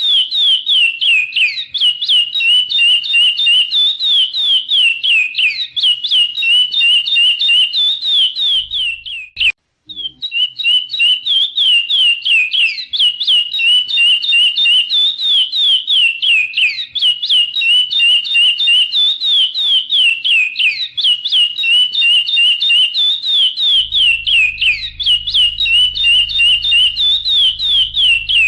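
Chestnut-bellied seed finch (curió) singing a long, continuous song of rapid whistled notes and downward slurs, with one brief break about a third of the way in.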